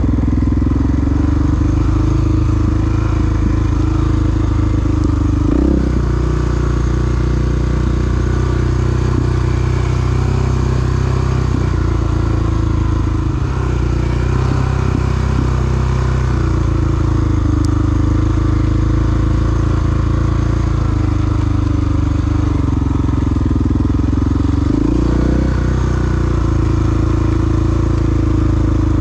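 Single-cylinder four-stroke dual-sport motorcycle engine running steadily while riding, its note sagging and rising with the throttle and breaking briefly about six seconds in and again near the end.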